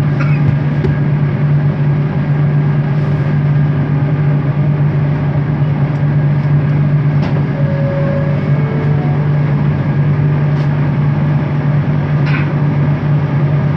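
Bombardier Innovia ART 200 train heard from inside the car while running at steady speed: a constant low hum from its linear induction motors over an even rolling rumble, with no change in pitch.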